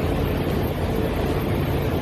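Steady engine and road noise of a moving vehicle, heard from on board, with a low hum under an even rushing sound.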